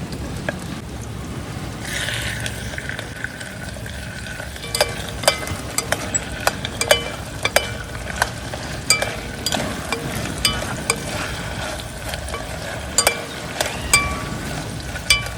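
Cooking sounds: a steady sizzling hiss, with a run of irregular, ringing metal clinks, like a utensil stirring in a pan, starting about a third of the way in.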